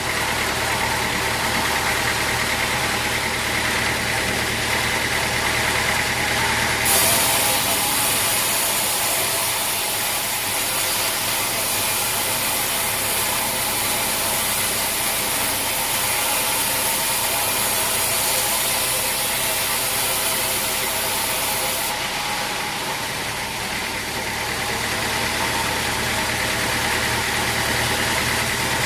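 Engine-driven sawmill machinery running steadily. From about seven seconds in until about 22 seconds a bright, hissing layer rises over the engine and the low hum drops, then it returns to the plain engine sound.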